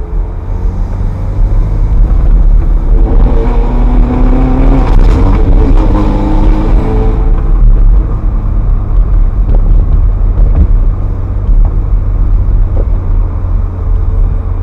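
Ferrari F430's 4.3-litre V8 under acceleration, heard from inside the cabin: the engine note climbs for about six seconds, then eases off to a steady low drone as the car cruises.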